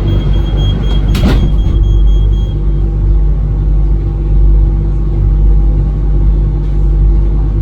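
Ivolga electric train running, heard from inside the car: a loud, steady low rumble with a few steady tones, and a single sharp knock about a second in.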